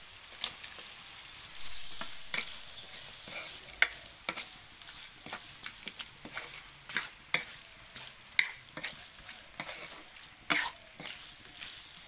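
Chopped chicken dropped into a hot kadai of fried spice paste starts sizzling about a second and a half in. A spatula then stirs and scrapes the meat around the pan in short repeated strokes, one or two a second, over the frying.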